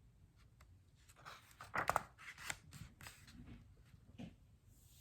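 Paper rustling and handling noises as a page of a picture book is turned: a flurry of rustles and clicks, loudest about two seconds in.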